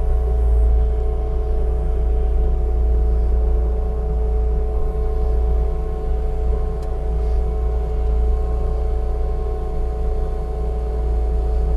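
Bobcat T650 skid steer's diesel engine idling steadily, a deep even hum.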